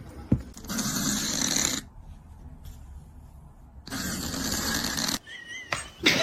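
A cat snoring: two long snoring breaths, each a little over a second, about two seconds apart.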